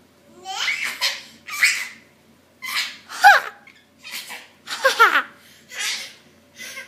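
Baby laughing in a string of breathy bursts, about eight in all, some ending in a high squeal that falls in pitch.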